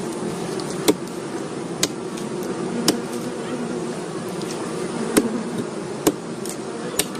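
Steady buzzing hum of a colony of stingless bees, with short sharp knocks or taps about once a second.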